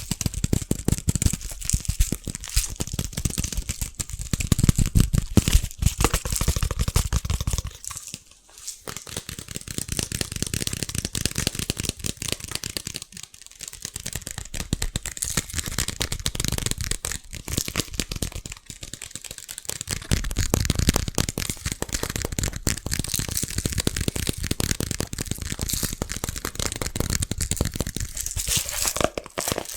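Fast, aggressive fingertip tapping on objects close to the microphone: a dense stream of rapid taps and clicks, broken by brief pauses about 8, 13 and 19 seconds in. The taps carry more low thud in the first eight seconds and again around 21 seconds.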